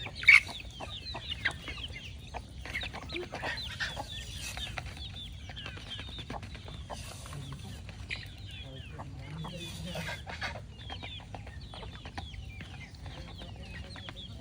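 Chickens clucking: many short, overlapping calls, with one louder call just after the start.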